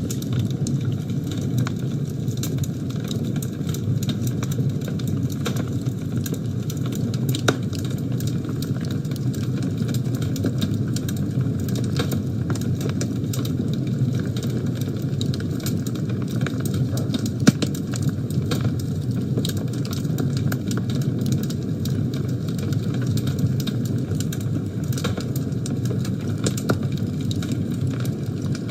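Fire burning in a fireplace: a steady low rumble of flames with frequent sharp crackles and pops, and one louder pop a bit past the middle.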